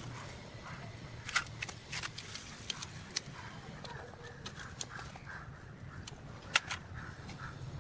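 Scattered sharp clicks and light clinks, the loudest about one and a half seconds in and near the end, over a deep steady hum.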